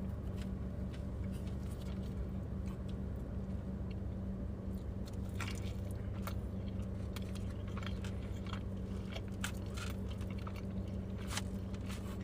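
Close-up chewing and biting of cheesy bread, with small crunches and mouth clicks scattered through, thickening in the second half. Under it runs the steady low hum of the car running.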